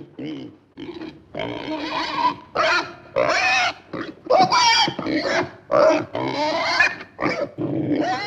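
A rapid run of short, pitched animal calls, one after another, some sliding up and down in pitch.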